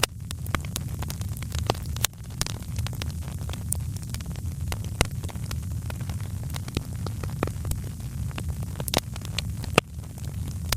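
Wood fire crackling in a fireplace: irregular sharp pops and snaps over a steady low rumble of the flames, with a few louder pops about 2, 5 and 9 seconds in.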